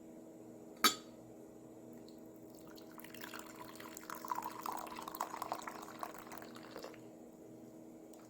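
Liquid being poured into a glass for about four seconds, starting about three seconds in, after a single sharp click about a second in. A steady low hum runs underneath.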